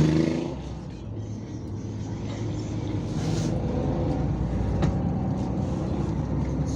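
Yutong ZK6128HG city bus running, heard from inside the cabin. The engine is loud at first and eases off within the first second, then settles into a steady hum that slowly builds. There is a single click about five seconds in.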